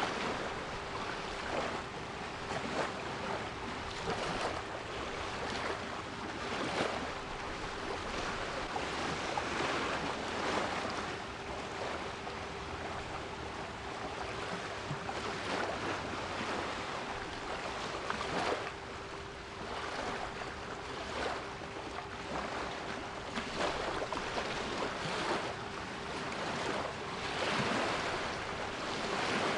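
Sea waves surging and washing in irregular swells, with a steady 396 Hz pure tone held under them throughout.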